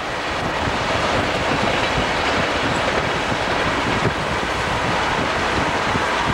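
Santa Fe freight train of trailers on flatcars rolling along: steady rumble and clatter of steel wheels on the rails, heard from a vehicle pacing the train.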